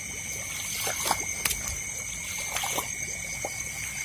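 Shallow paddy water splashing and trickling in a few short bursts, the sharpest about a third of the way in, as someone wades or works the water, over a steady high-pitched night chorus of insects.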